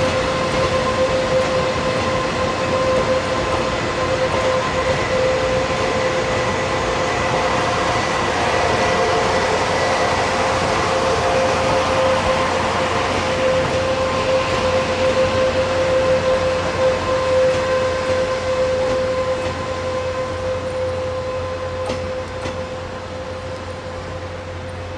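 A Taiwan Railways train running through the station, a steady rumble with a high, steady whine on top, fading over the last few seconds as it moves away.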